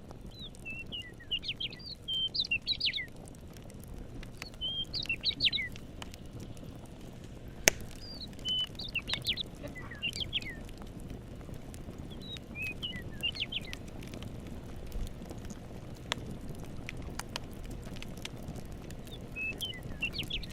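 A songbird singing short, quick warbled phrases, five of them a few seconds apart, over a steady low hiss of ambience. A few sharp single pops of a crackling campfire sound in between.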